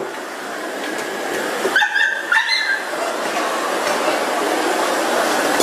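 Dogs whimpering and yelping, with a couple of short high cries about two seconds in, over a steady background din.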